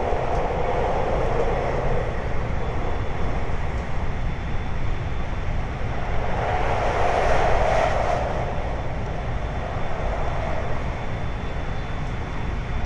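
521 series electric train running: a steady rumble of wheels on rails, swelling louder about six seconds in and easing off again after about two seconds.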